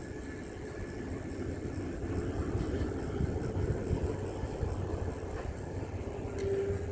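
Riding noise from a moving bicycle: wind on the microphone with tyre and road noise, a little louder from about two seconds in, over a faint steady hum.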